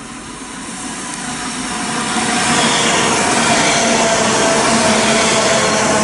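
Northern Class 331 electric multiple unit running through the station: the rush and rumble of its wheels on the rails grows louder over the first two seconds as it approaches, then holds steady as the carriages go past, with a faint steady tone under the noise.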